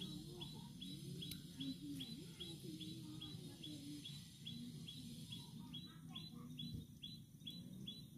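A bird calling a short, high chirp over and over, about two a second, very regular, with fainter low sounds beneath.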